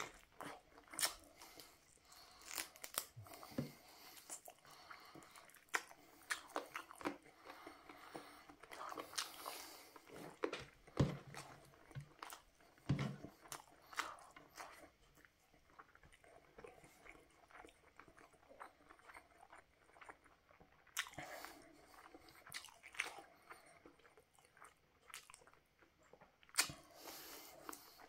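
Close-up mouth sounds of a person eating barbecue chicken and rice by hand: biting into the meat, chewing, with irregular short clicks and wet smacks throughout.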